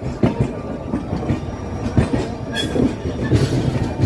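A train running on the track, a steady low rumble with the wheels clattering irregularly over the rails.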